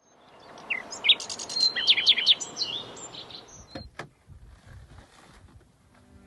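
Small birds chirping and trilling in quick, bright notes over faint outdoor noise, fading out after about three seconds. Two sharp clicks follow close together around the middle.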